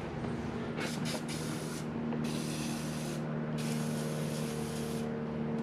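Aerosol can sprayed in bursts onto stuck spark plugs, penetrant to free them: a short hiss about a second in, then two longer hisses of about a second each. A steady low hum runs underneath.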